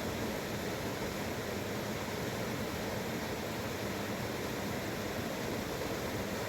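Steady rushing of a fast mountain river, an even wash of water noise without breaks.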